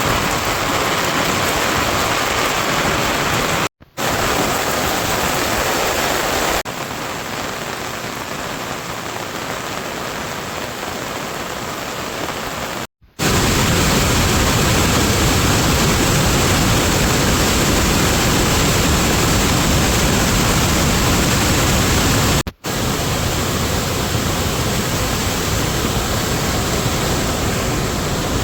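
Steady rain falling, a dense, even hiss. It runs as several clips of differing loudness, broken by three brief dropouts.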